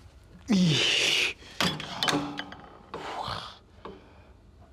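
A man breathing out hard and panting after a gym set, with a few clicks and a clank of gym equipment about two seconds in.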